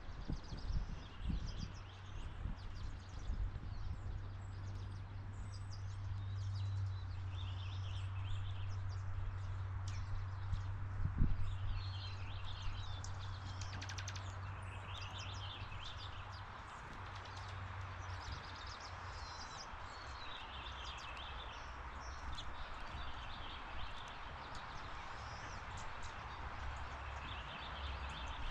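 Birds chirping on and off over a steady low hum and a soft background hiss.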